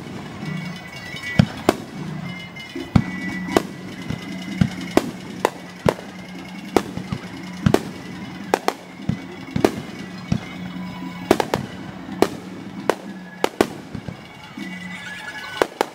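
Aerial firework shells bursting in rapid succession, sharp bangs about two a second, sped up to double speed. A steady low tone runs beneath.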